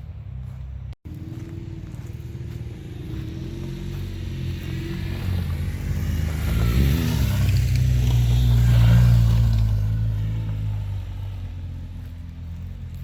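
A motor vehicle engine running close by. It stops briefly about a second in, then grows louder to a peak around nine seconds and fades again, as when a vehicle passes.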